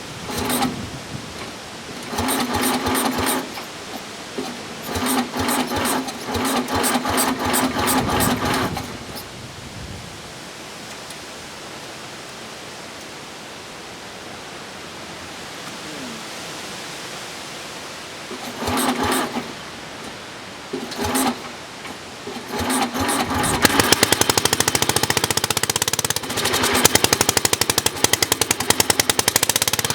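1967 Sears Suburban 10 garden tractor's cast-iron Tecumseh single-cylinder engine being cold-started. It is cranked by its starter-generator in several bursts with pauses between, then catches about three-quarters of the way in and runs with a fast, even firing beat.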